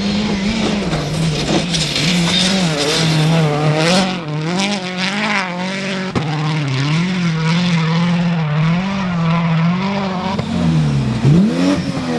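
Rally car engine running hard, its revs rising and falling rapidly over and over as the throttle is worked, with a deeper drop and a quick climb in revs near the end.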